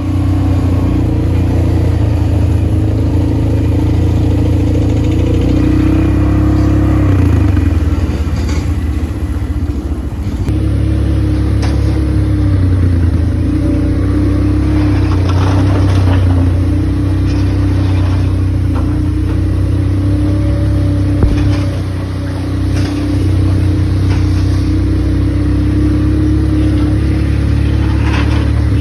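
ATV engine running continuously under way, its pitch shifting a little up and down, with a few short knocks or rattles through it.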